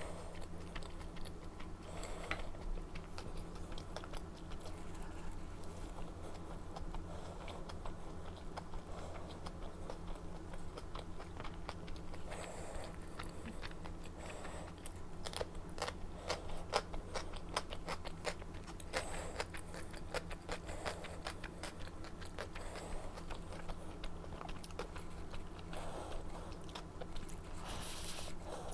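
Close-up eating sounds: a person chewing and biting food, with many quick wet mouth clicks and occasional crunches, over a steady low hum.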